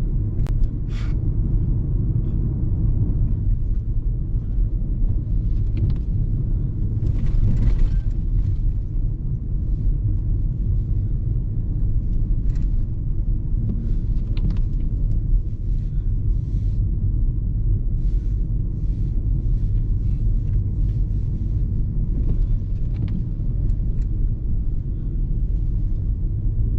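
Car driving on a rough, snowy road, heard from inside the cabin: a steady low rumble of engine and tyres, with scattered faint clicks and knocks.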